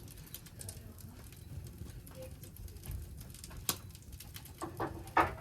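Campfire crackling, with scattered sharp pops over a low steady rumble of the burning wood. A louder crack and a brief pitched sound come near the end.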